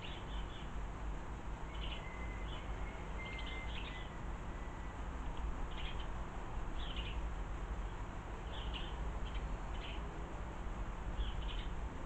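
Small garden birds chirping, short calls every second or so, with a faint thin whistle about two seconds in, over a steady low rumble.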